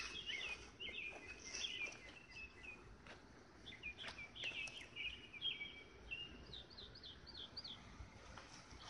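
Birds chirping and singing, with a quick run of repeated chirps near the end, and a few light clicks.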